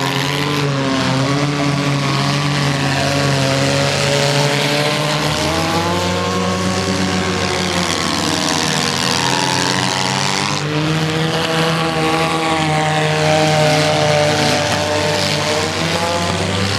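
Several small-car engines racing together, their pitch rising and falling as they rev up and back off around the track.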